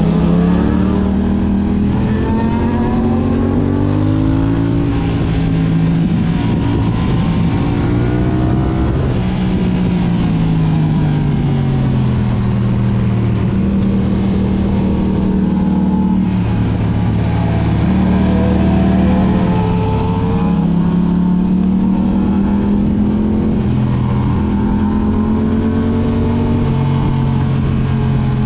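Yamaha R6 inline-four engine with an Akrapovic exhaust, ridden hard: the pitch climbs and drops over and over, stepping with gear changes.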